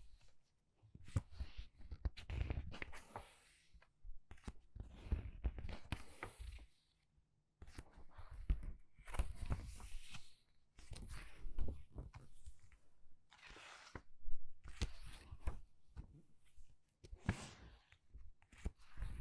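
Pages of a book being turned quickly one after another: a papery rustle and flick every second or two, with short quiet gaps between.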